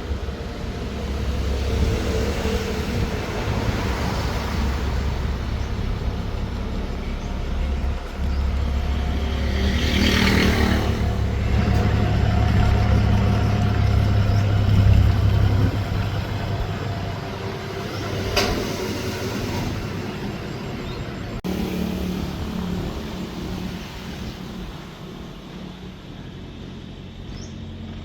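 Boat engine running with a steady low rumble that swells to its loudest in the middle and then fades away, with a sudden change in the sound about three-quarters of the way through.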